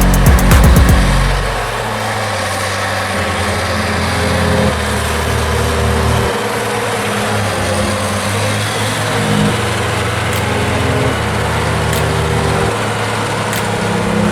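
A heavy snow-clearing machine's engine running steadily, its low note shifting a few times. Music fades out in the first second and a half.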